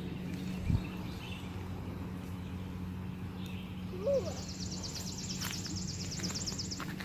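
A songbird's rapid, high trill, about ten notes a second for about two and a half seconds, starting a little past the middle. A steady low hum runs underneath, with a short thump near the start and a brief hum of a voice just before the trill.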